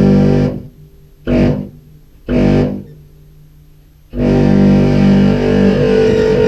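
Contrabass clarinet played through fuzz and synth pedals, giving a low, distorted, buzzy tone: a held note cut off about half a second in, two short notes, then a long note from about four seconds in that wavers and chops.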